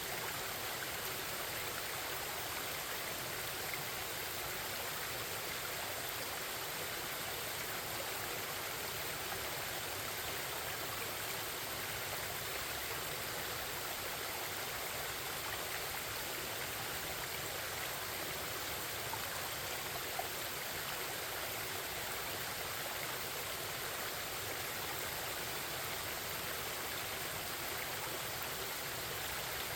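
Forest stream flowing: a steady, even babble of running water.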